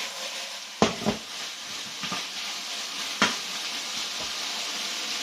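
Food sizzling in a hot wok while being stirred, with a few sharp clacks of the utensil against the pan, the loudest about a second in and about three seconds in.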